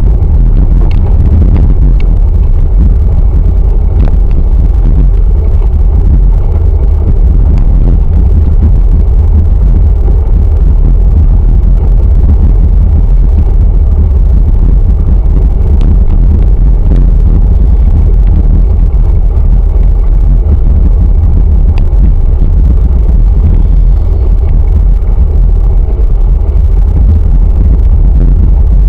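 Loud, steady wind rumble on the microphone from riding a bicycle at speed.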